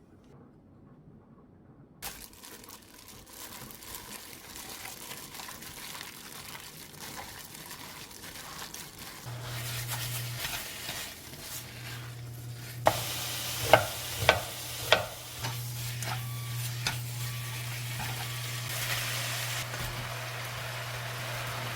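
Soy-sauce-marinated pork sizzling as it is stirred in a frying pan, with a sizzle that swells partway through. Four sharp clanks of a utensil on the pan come about two-thirds of the way in, over a steady low hum.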